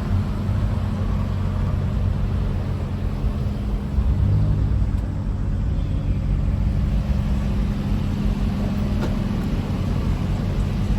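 Car engines rumbling low and steady as cars roll slowly past, swelling briefly about four seconds in.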